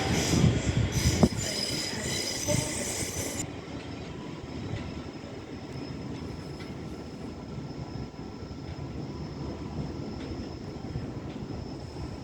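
Electric passenger train moving through the platform, its wheels squealing on the rails with a couple of sharp knocks in the first seconds. After about three and a half seconds it drops to a quieter steady rumble with a faint whine.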